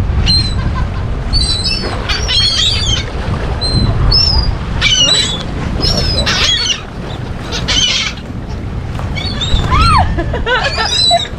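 A flock of seagulls calling, with many short, high squawks overlapping and repeating one after another over a steady low rumble.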